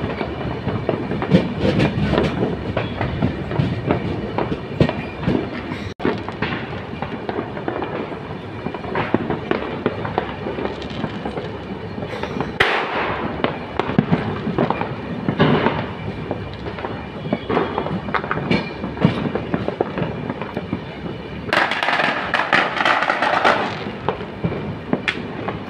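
Karnataka Express passenger train running at speed, heard from inside the coach: steady wheel clatter and rattling over the rails. Two louder hissing rushes come through, a short one about halfway and a longer one near the end.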